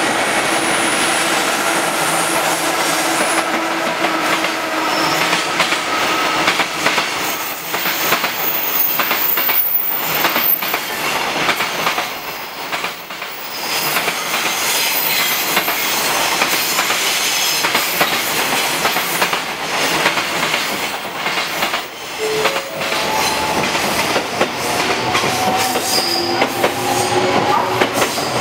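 EF66 electric locomotive hauling a long container freight train past, its wheels clicking steadily over the rail joints as the wagons roll by. In the last several seconds a whine that rises in pitch comes in as a passenger train moves past close by.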